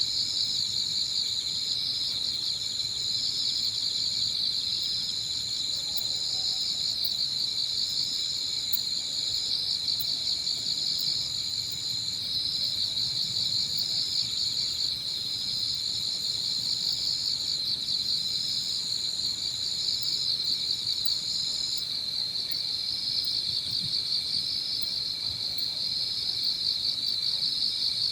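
A steady chorus of autumn insects chirring together. One high trill breaks off briefly about every two seconds and stops near the end, and a low wind rumble sits underneath.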